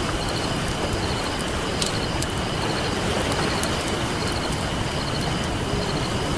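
Steady rush of ocean surf, with a few sharp pops and crackles from a wood campfire.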